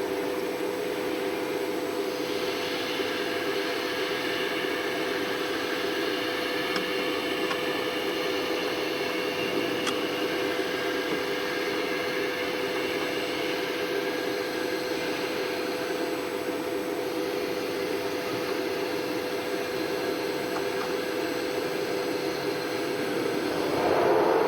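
Blue Elephant 1530 ATC CNC router running, a steady hum with a constant whine and a layer of higher pitched tones over roughly the first two-thirds, then briefly louder near the end.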